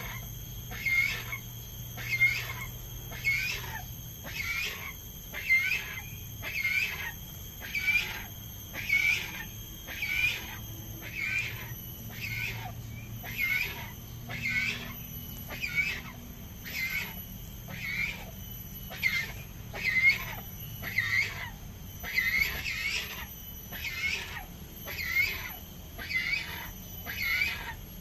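Yellow-crested cockatoo calling over and over, one short screech about every second.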